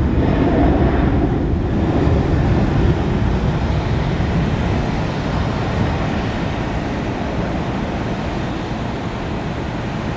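Jet engine roar of a Boeing 737-400 (CFM56 turbofans) at takeoff power, a deep rumble that slowly fades as the airliner climbs away.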